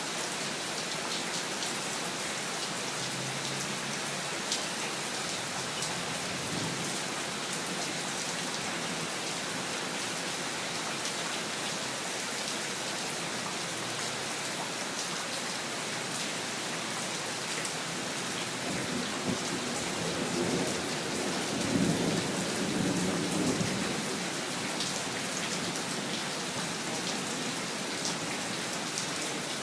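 Steady heavy rain falling, with fine patter of drops throughout. A low roll of thunder builds and fades about two-thirds of the way through, the loudest moment, with a fainter rumble early on.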